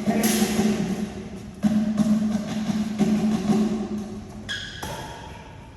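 Badminton rally: sharp racket strikes on a shuttlecock roughly every one and a half seconds, over a steady low hum.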